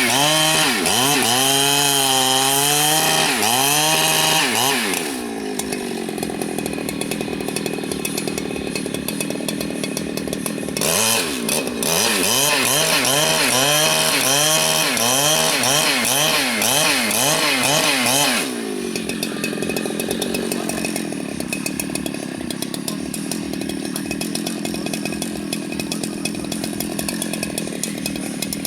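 Large two-stroke Husqvarna chainsaw revved at full throttle and cutting rain-tree wood, its pitch sagging and recovering under load, for about five seconds. It drops back to idle, cuts again for about seven seconds, then returns to a steady idle.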